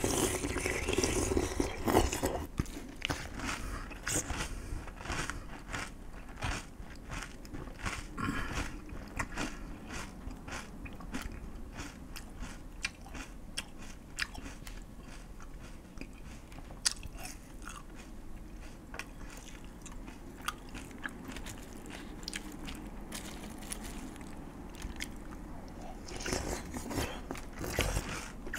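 A person chewing and crunching food close to a microphone: a steady run of small, crisp crunches, louder at first and again near the end.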